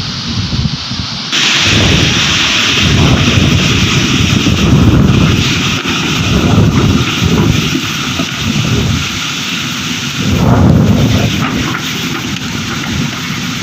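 Storm wind blowing in strong gusts, rumbling heavily on the microphone over a loud steady rushing hiss; the hiss jumps louder about a second in.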